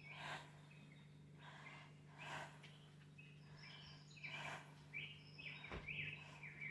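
Faint recorded birdsong from a television: quick chirps and twittering glides, with a few soft breathy bursts in between and a steady low hum underneath.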